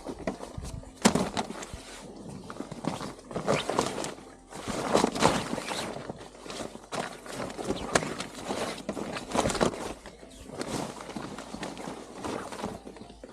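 Irregular crunching steps on rough, dry ground, coming in uneven clusters.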